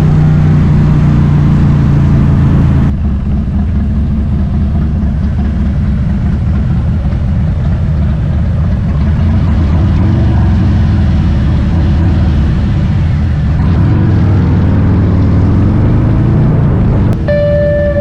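Harley-Davidson V-twin motorcycle engine running at riding speed with a steady low rumble, rising in pitch as it accelerates about fourteen seconds in.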